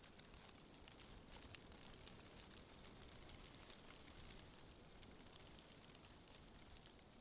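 Faint, steady wind noise with a high hiss and a few light ticks scattered through it.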